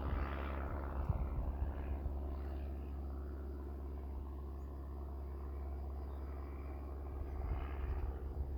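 Steady drone of a light propeller aircraft's engine, a low even hum with several fixed pitches, and wind buffeting the microphone in the first couple of seconds and again near the end.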